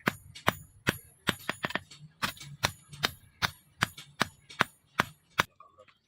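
Hand hammer striking leaf-spring steel on an anvil, a steady run of ringing metallic blows about two to three a second, some in quick pairs; the blows stop shortly before the end.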